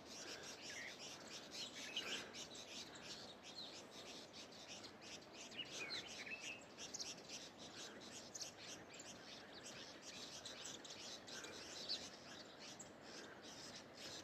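Birds chirping: a dense, continuous run of many short, high chirps overlapping, with a few longer gliding calls, around two and six seconds in.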